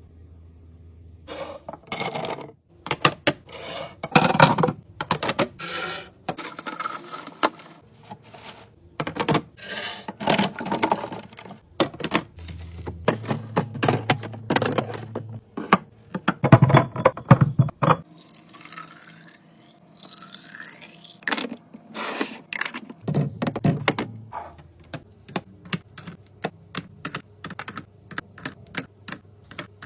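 Containers and food items being handled and set down while a refrigerator is organised: a string of knocks, clatter and scrapes, with a few squeaky rubbing sounds about two-thirds of the way in.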